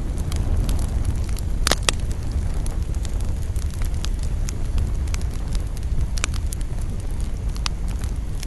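Wood fire burning with a steady low rumble and scattered sharp crackles and pops, a brief cluster of louder pops a couple of seconds in.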